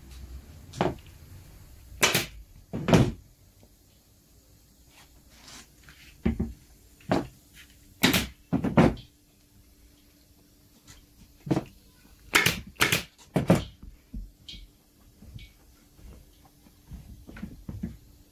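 A series of irregular sharp knocks and clacks, about a dozen, the loudest in clusters about two, eight and thirteen seconds in, with a faint steady hum beneath.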